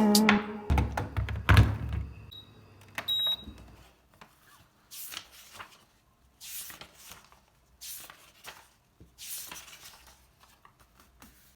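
Soft knocks and handling noises of objects in a small room, scattered over several seconds, with a short high beep about three seconds in.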